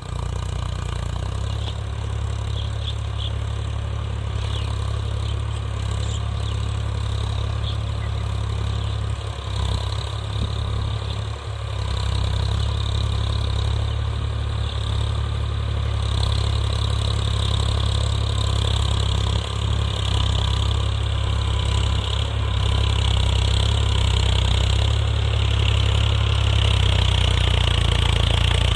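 Eicher 5660 tractor's diesel engine running steadily with a deep, even drone, getting a little louder over the second half as a hissing, grinding band grows above it.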